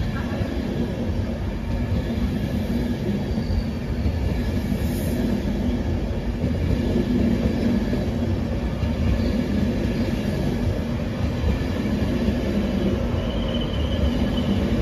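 LNER InterCity 225 electric train (Class 91 locomotive and Mark 4 coaches) running into the platform: a steady rumble of wheels on rail with an even electrical hum, and a faint high squeal near the end.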